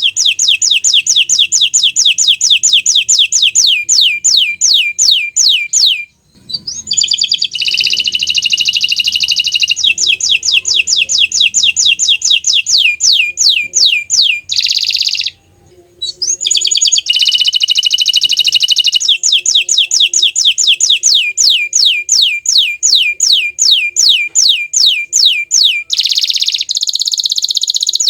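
Domestic canary singing loudly: long trills of rapidly repeated notes, each sweeping downward, several a second, alternating with dense buzzy rolls. The song breaks off briefly twice.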